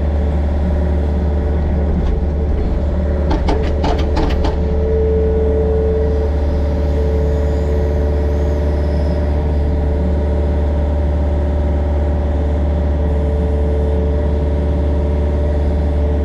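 Yanmar mini excavator's diesel engine running steadily, with a whine that swells now and then as it works. A quick run of metal clanks comes about three to four seconds in.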